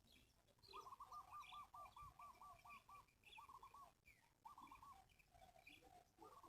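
Faint bird calls: a fast run of about ten repeated notes about a second in, then two shorter runs of the same notes, with thin higher chirps scattered among them.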